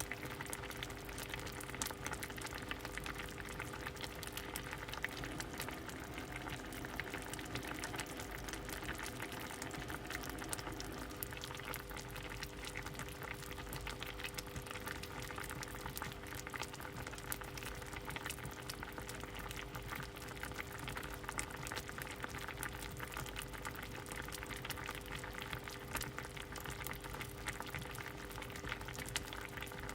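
Pot of soup boiling: steady bubbling with many small pops, and a steady hum underneath.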